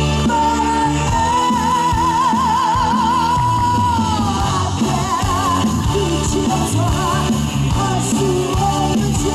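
Live pop-rock band music: over bass and drums, a lead line holds one long high note with wide vibrato for about four seconds, then glides down into shorter phrases.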